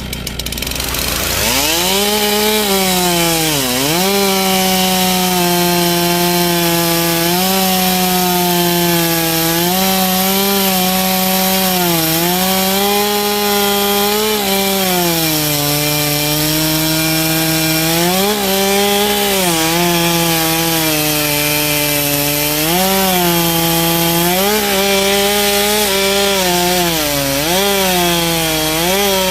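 Chainsaw cutting through a big log: the engine comes up to speed about a second in, then its pitch sags and recovers again and again as the chain bites into the wood.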